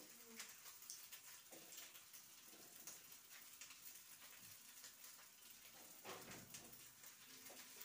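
Faint sizzling of a beef burger patty frying in a pan, with a few soft clicks and a light scrape of a kitchen utensil about six seconds in.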